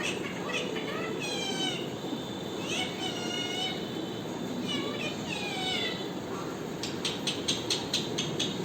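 Pet parrot calling: a string of short, pitched calls that slide down in pitch, then near the end a quick run of sharp chirps or clicks, about five a second.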